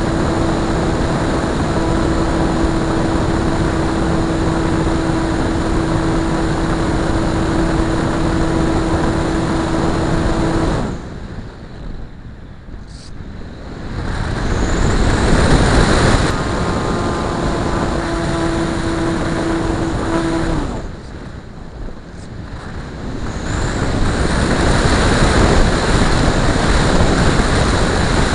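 Multiplex Blizzard model plane's motor and propeller running at a steady drone. The drone cuts off suddenly twice, about eleven and twenty-one seconds in. Each time it comes back as a loud rushing swell, and after the first swell the steady drone picks up again.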